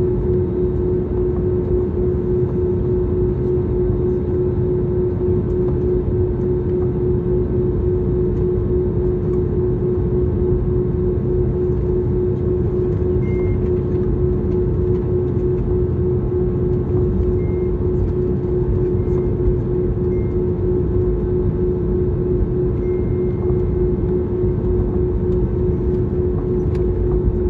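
Steady cabin noise inside an Airbus airliner: an even rumble of engine and airflow with a constant hum.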